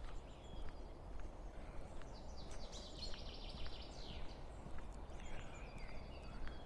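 A small bird singing a rapid, high trilled phrase of about two seconds around the middle, with fainter chirps either side, over a low outdoor rumble and the soft steps of someone walking on a lane.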